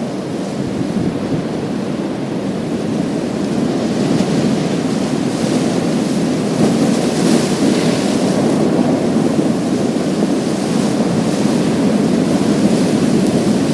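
Surf breaking and washing over a pebble beach: a steady rushing of water, with a brighter hiss swelling about halfway through and again near the end.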